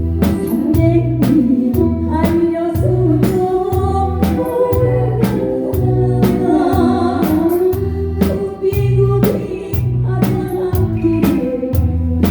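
Live band playing a song with a lead vocal over it: drum kit hits on a steady beat and bass notes pulsing in time underneath.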